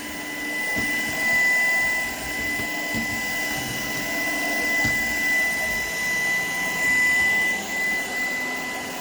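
Shark PowerDetect vacuum cleaner running, a steady motor whine with a high tone, swelling and dipping as it is worked over the floor. A few short low knocks come through, about a second, three seconds and five seconds in.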